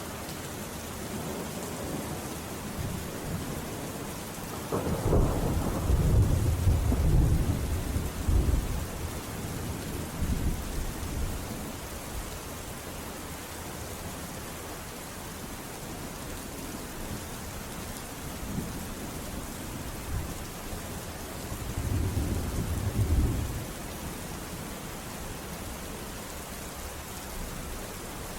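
Steady rain falling, with rolls of thunder: a long low rumble about five seconds in, and a shorter one about three quarters of the way through.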